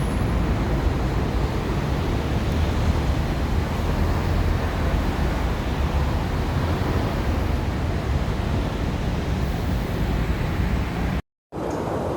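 Steady wind rushing over the microphone with a deep rumble underneath, high on an open rooftop deck. It cuts out completely for a moment near the end, and after the cut the rumble is weaker.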